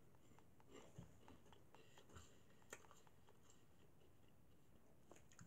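Faint, scattered crunches of a Flamin' Hot Cheetos corn snack being chewed, heard as a few soft clicks over near silence.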